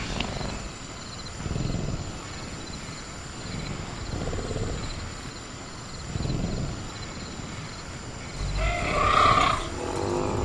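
Velociraptor sound effect: low growls swelling about every two and a half seconds over steady cricket chirping, then a louder, shriller call about eight and a half seconds in.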